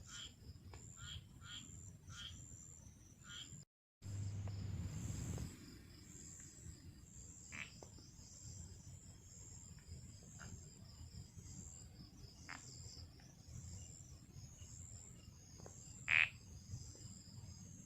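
Night chorus of insects chirping steadily and high-pitched, with short repeated frog-like calls at first and then occasional single calls, one louder than the rest near the end. A brief low rumble comes just after a short break about four seconds in.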